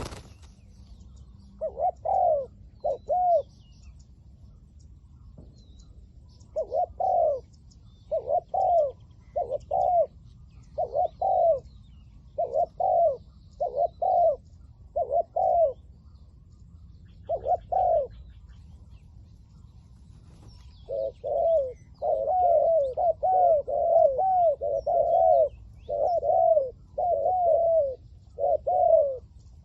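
Spotted doves cooing: repeated short, arched coo notes in runs, sparse at first and coming thick and overlapping in the last third. A brief sharp click at the very start.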